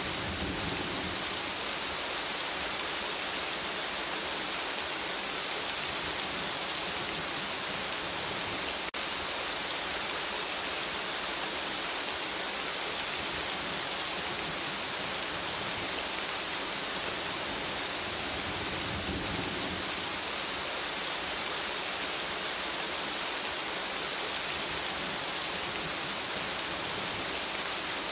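Steady rain falling on forest foliage, an even hiss of countless drops.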